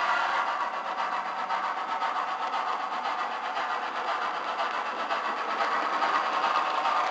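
HO scale model train running along the layout track: a steady mechanical whir of the motor and wheels on rail, with small fast rises and falls in level.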